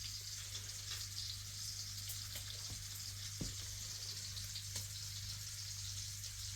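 Faint steady sizzle of food frying in a pan, over a low steady hum, with a couple of soft clicks partway through.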